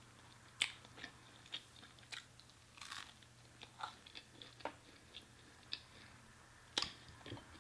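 Faint close-miked chewing of food: scattered soft mouth clicks and crunches, with sharper clicks about half a second in and near the end.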